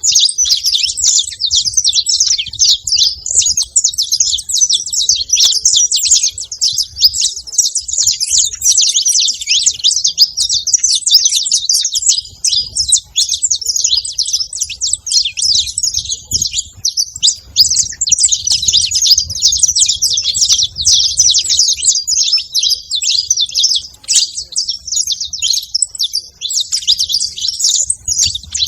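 Saffron finch singing almost without pause, a dense run of fast, high chirps and trills.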